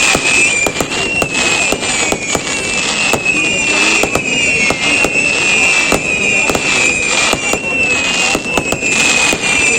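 Fireworks display going off in quick succession: many sharp bangs and crackling, with a high, wavering whistle heard throughout.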